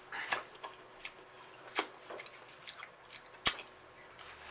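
Close-up eating sounds: a string of sharp, irregular mouth clicks and smacks, with one louder knock about three and a half seconds in.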